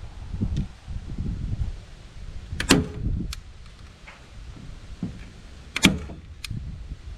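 A staple gun firing twice about three seconds apart, driving staples through screen mesh into a board; each sharp snap is followed by a lighter click, with handling and rustling in between.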